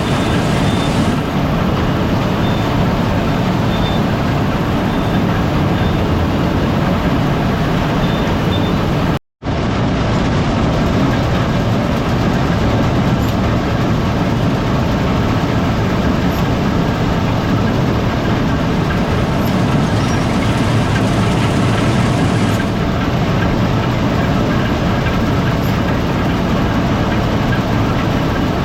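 Gleaner R72 rotary combine running steadily while harvesting rye: a loud, even drone of engine, rotor and machinery. The sound cuts out for a split second about nine seconds in.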